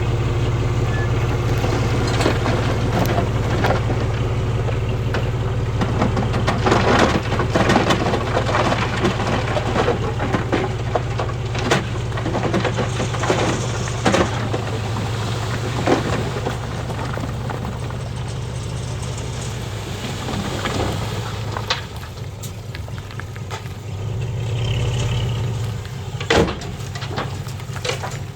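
A bulldozer's diesel engine runs steadily under load, with repeated sharp clanks and knocks of machinery and stone throughout, thickest in the first half.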